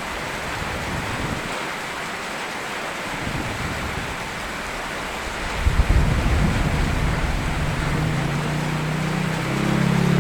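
Steady rain falling, with a short low rumble about six seconds in. Near the end a low engine-like hum rises under the rain.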